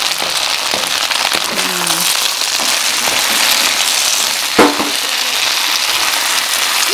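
Chicken and vegetables sizzling in hot oil in a pan as they are stir-fried, a steady hiss. A single sharp knock about four and a half seconds in.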